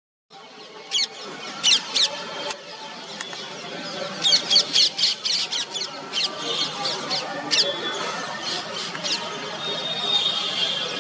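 Small birds chirping: scattered short, sharp, high chirps, many sweeping downward, with a quick run of them around the middle and a brief held high note near the end, over a light outdoor background.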